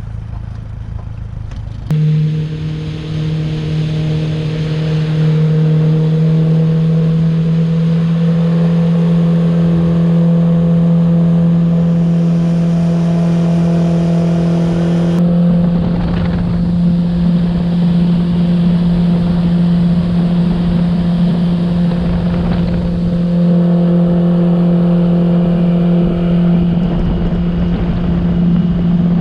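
An engine speeds up about two seconds in, then runs at a steady speed with an even pitch.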